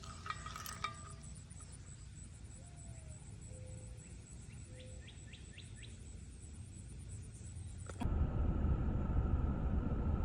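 Outdoor ambience: a steady low rumble with a few faint bird chirps and soft whistled notes in the middle. About eight seconds in it cuts abruptly to a louder low rumbling noise.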